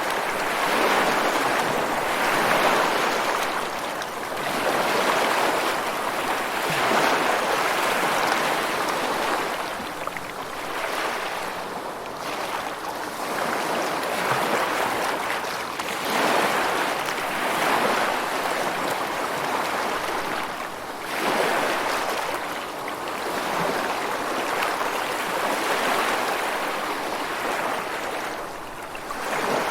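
Ocean waves washing in, a steady rushing noise that swells and fades every few seconds.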